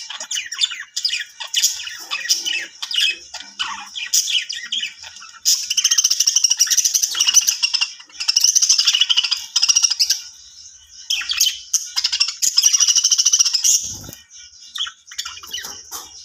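Budgies chirping and warbling: short high chirps at first, then long stretches of fast, chattering warble. A brief low thump comes near the end.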